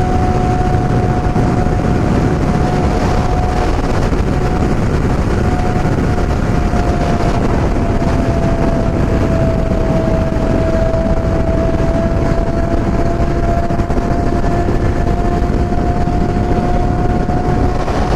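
Yamaha MT-07 parallel-twin motorcycle engine running at a steady cruising speed under heavy wind rush. Its pitch sags slightly about halfway through and climbs back.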